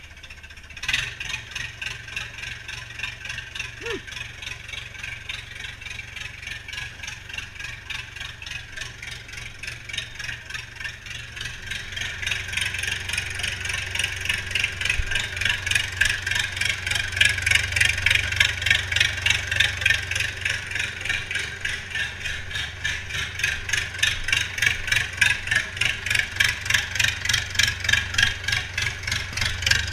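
International Harvester 844 XL tractor's diesel engine running with an even clatter, freshly started after standing for one and a half to two years. It grows louder from a little before halfway through.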